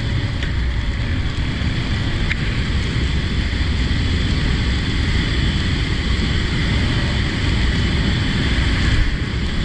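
Steady wind rush buffeting the microphone of a moving motorcycle, with engine and road noise beneath.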